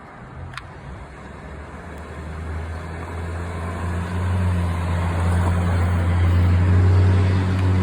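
Road traffic at an intersection: a motor vehicle's engine with a steady low hum that grows louder over several seconds, over the hiss of traffic.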